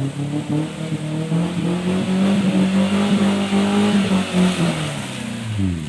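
Vehicle engine revving up under load, holding high revs for a few seconds, then dropping back near the end.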